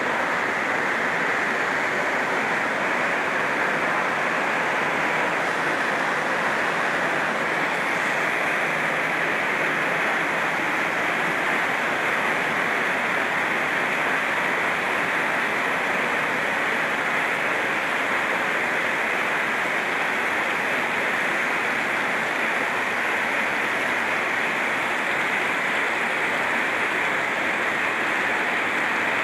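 Heavy rain drumming steadily on a tin roof, a dense even patter without let-up.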